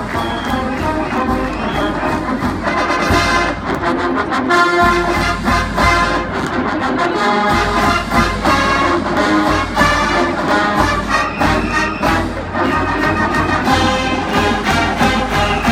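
Marching band playing a loud brass-led number, trombones and trumpets over a steady drum beat.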